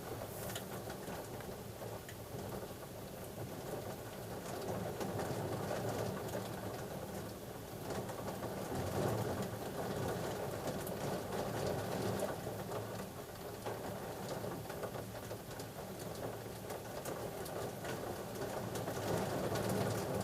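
Pigeons cooing against a steady hiss of rain during a thunderstorm.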